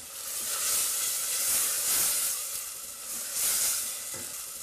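Tomato-and-spice curry base sizzling and hissing in a stainless steel saucepan as it is stirred with a wooden spoon. The sizzle swells and fades in several waves.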